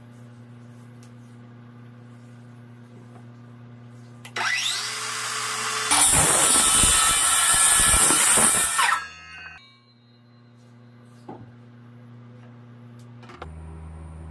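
Electric woodworking power tool spinning up with a rising whine, cutting wood loudly for about three seconds, then winding down.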